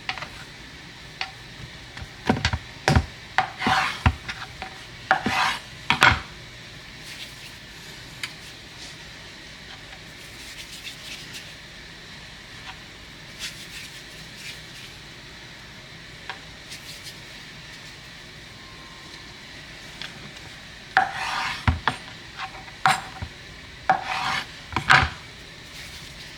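Two bursts of scraping and clinking from kitchenware being handled, the first a few seconds in and the second near the end, over a steady background hiss.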